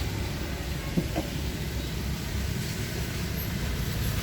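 Steady low rumble of a moving vehicle, with one light click about a second in.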